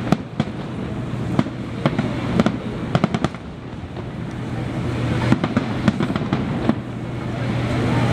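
Fireworks finale barrage: aerial shells bursting in quick, irregular succession, a dozen or so sharp bangs over a continuous rumble.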